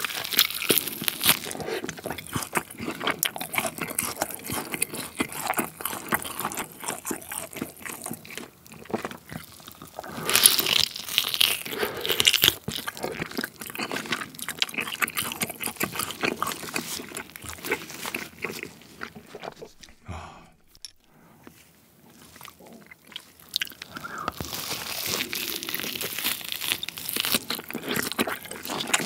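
Close-miked biting and chewing of grilled tomahawk steak, meat torn off the rib bone by mouth, with a dense run of small wet clicks. Busiest about ten seconds in, with a short lull a little after the middle.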